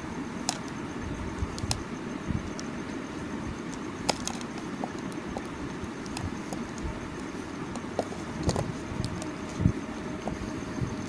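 Bars of soap being handled: scattered light clicks and taps, with a few soft low thuds, over a steady background hiss and rumble.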